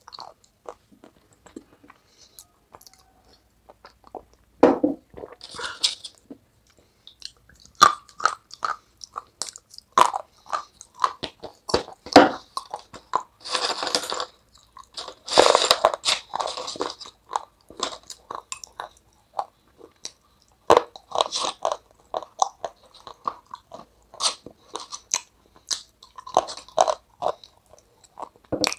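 A person biting and chewing dry, brittle flakes close to the microphone: irregular sharp crunches, densest and loudest in a stretch about halfway through.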